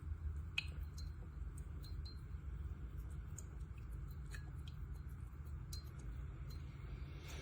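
Single-serve coffee maker running with a steady low hum and scattered faint ticks and clicks, one slightly sharper click about half a second in. It is brewing very slowly, barely getting water through.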